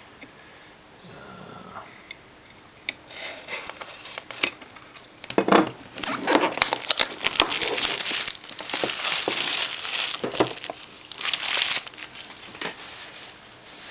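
A jigsaw puzzle box's packaging being torn open and crumpled. A few quiet handling sounds come first, then about five seconds into it a dense run of crinkling and tearing that lasts several seconds before easing off near the end.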